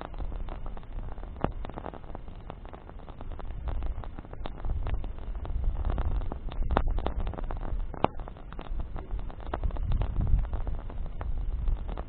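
Campfire of burning branches crackling, with frequent irregular sharp pops over a low steady rumble.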